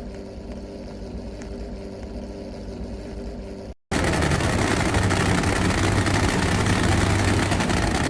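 Car engine idling steadily. After an abrupt cut about four seconds in, a louder car engine runs with a steady low hum and more rushing noise.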